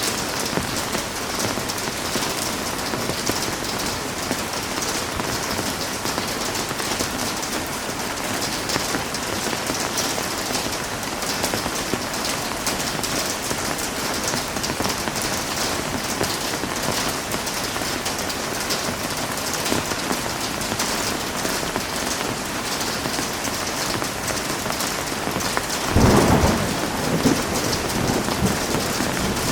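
Heavy rain falling steadily in a dense hiss. Near the end a thunderclap breaks in and rumbles away over a few seconds.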